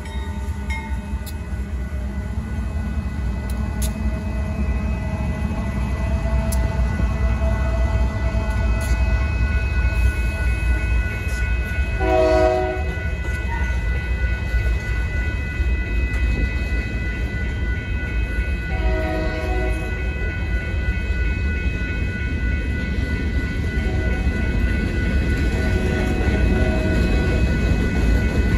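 Union Pacific freight train rolling past with covered hopper cars, a deep steady rumble of wheels on rail. The lead GE locomotive's horn sounds two short blasts, about 12 seconds and about 19 seconds in, while the crossing bells keep up a steady high ringing.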